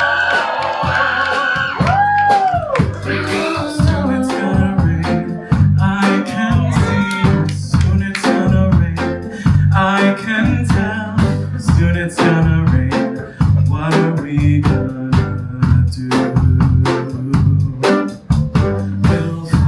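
Live folk-rock band of drums, bass, guitar and piano playing an instrumental passage with a steady beat. A held sung note bends and ends about three seconds in.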